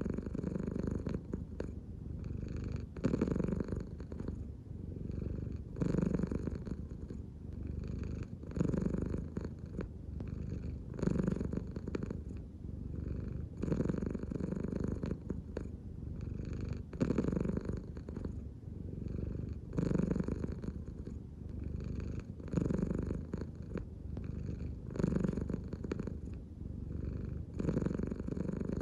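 American Shorthair cat purring steadily and close up. The purr swells and fades with each breath, about every three seconds.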